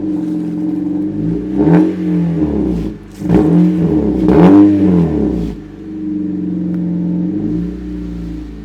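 Car engine just after starting, revved in a few swells that rise and fall, then settling to a steady idle about five and a half seconds in.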